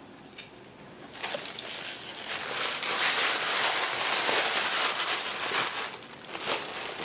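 Wrapping or packaging crinkling as it is handled, starting about a second in and going on for several seconds, with a brief lull near the end.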